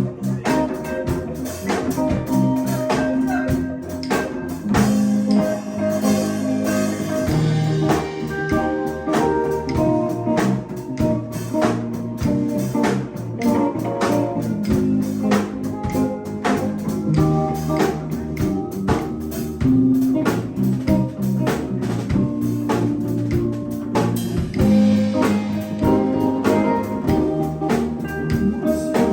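Live band playing at a jam: guitar over a steady drum beat.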